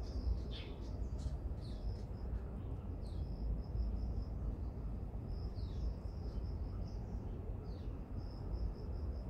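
Small birds chirping with short, falling high calls and rapid high trills, repeated at intervals, over a steady low rumble.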